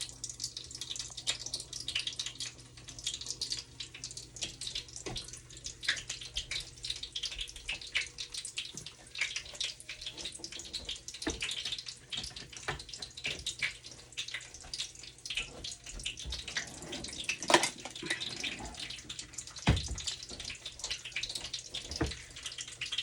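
Chicken breast and egg frying in hot oil in a pan: a steady sizzle full of small crackling pops, with a few louder pops near the end.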